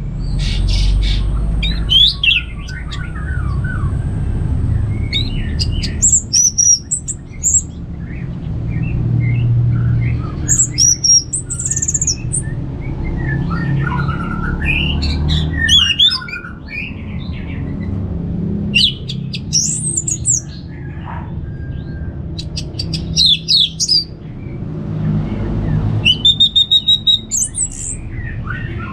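Orange-headed thrush singing: loud bursts of varied, fast whistled and harsh phrases, repeated every few seconds with short pauses between them, over a steady low rumble.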